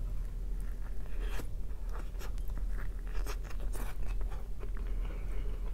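A person biting and chewing a browned bun close to the microphone: irregular crunching and wet mouth clicks.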